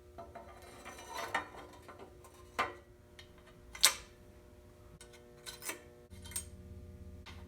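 Metal clicks and taps of bicycle parts and hand tools being fitted during assembly: a short rattle, then single sharp clicks about a second or so apart. A low hum comes in near the end.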